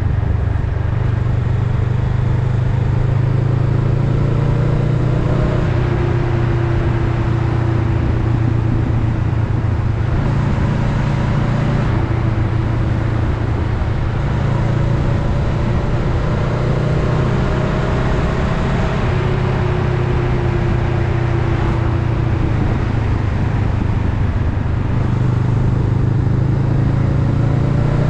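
Honda Rebel 500's parallel-twin engine running steadily under way, its pitch slowly rising and falling with the throttle, over a steady rush of wind.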